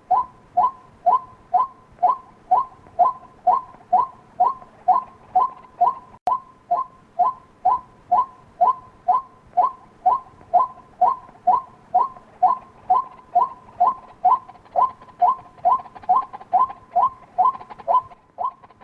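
White-breasted waterhen call, a short two-pitched note repeated evenly about two and a half times a second, as used as a lure call for trapping the bird.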